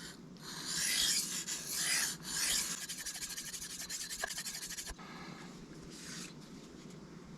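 Steel knife blade being stroked across a sharpening stone with a gritty rasp: three long strokes, then a run of quick short strokes, then one fainter stroke near the end.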